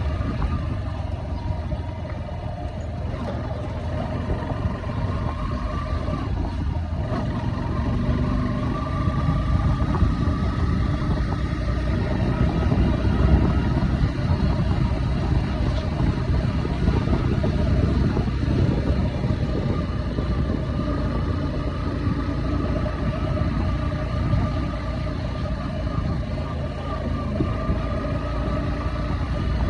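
A vehicle engine runs steadily through the ride, with a dense low rumble over it, likely wind buffeting the microphone.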